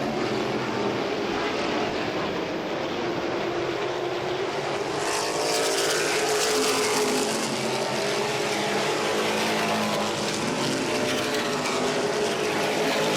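A field of V8 modified race cars running at speed around a short oval, their engines a dense continuous drone. The sound grows brighter about five seconds in.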